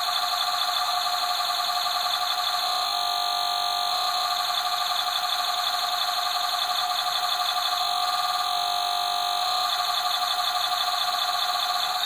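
Circuit-bent toy washing machine's sound chip putting out a harsh, buzzing electronic drone of stacked tones. The pitch pattern steps to a different setting a few times, then changes abruptly at the end.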